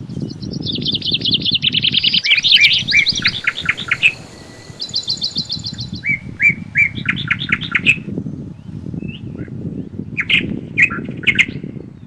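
Songbirds singing in fast trills and runs of repeated notes over a steady low rush of wind. The birdsong is densest in the first eight seconds, with a few scattered calls near the end.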